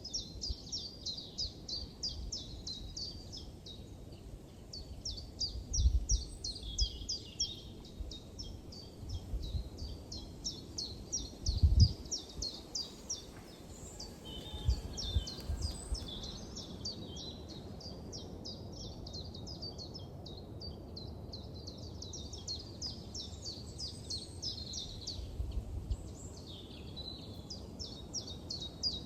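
Songbird calling in rapid trains of short high chirps, several a second, pausing and resuming, over a low outdoor hum. A few loud low thumps break in, the loudest about a third of the way through.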